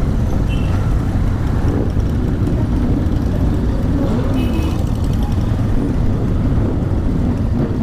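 A motorcycle riding along at a steady pace, its engine running under a heavy low rumble of wind on an action-camera microphone, with other motorcycles close by.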